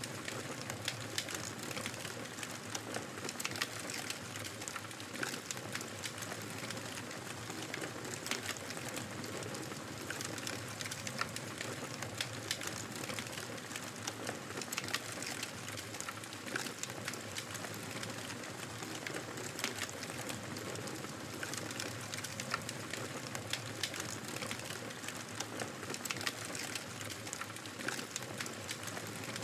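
Wood fire crackling in a fireplace: a steady soft hiss with frequent irregular small pops and snaps.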